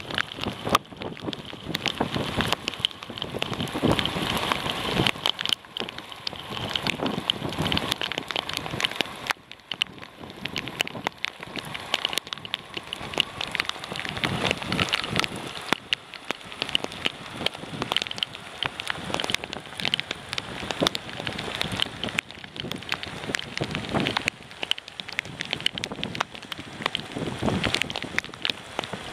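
Heavy rain falling on a sailboat's deck, a dense patter of drops that swells and eases.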